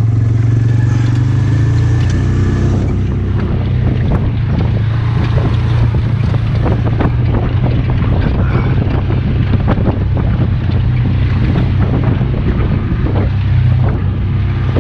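Polaris utility vehicle's engine running steadily at low speed. Frequent light knocks and rattles come from the vehicle as it moves over rough ground.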